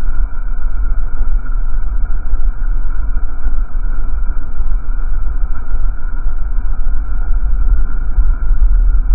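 A car on the move: a steady, loud low rumble with no distinct engine note.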